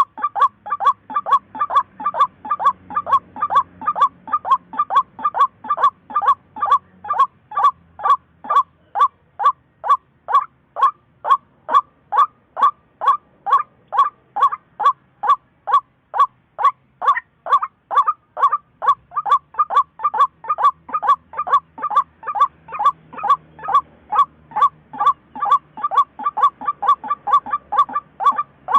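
Waterhen (chim cuốc) calling: one short, clipped note repeated monotonously at an even pace of about two and a half per second, without a break.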